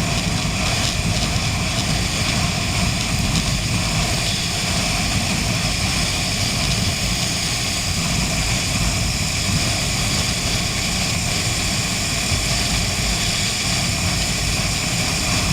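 Honda CB 500 motorcycle riding at a steady speed: continuous wind rush and buffeting on the microphone over the engine's even drone, with no change in pace.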